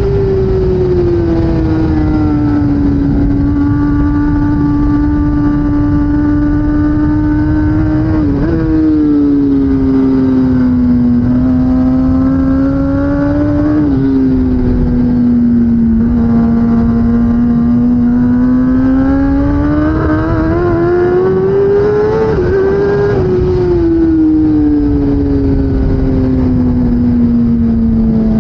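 2016 Kawasaki ZX10R superbike's inline-four engine running at speed, its pitch rising and falling slowly with sudden shifts about 8, 14 and 23 seconds in, over a heavy rush of wind noise.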